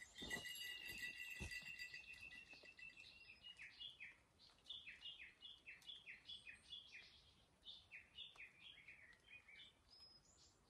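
Faint birdsong in wet forest: a songbird repeats short, falling whistled notes about three a second, in two runs with a brief pause between. Before that there is a thin, steady high tone in the first few seconds.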